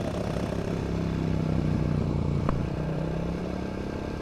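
FRP GMB100 mini bike's 99cc four-stroke engine running steadily near full throttle, which the rider thinks is held back by a governor. A single sharp click comes about two and a half seconds in.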